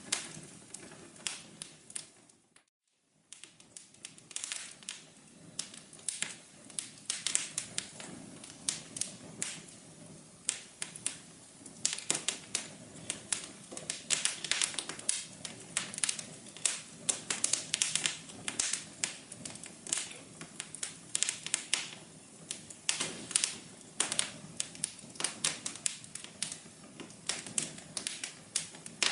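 Wood fire crackling: dense, irregular sharp pops and snaps over a soft hiss, with a brief gap of silence about three seconds in.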